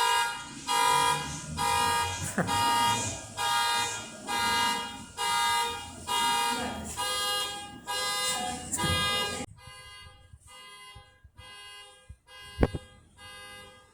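Car alarm sounding, a pitched honk repeating about once a second; it turns much fainter about nine and a half seconds in and keeps going.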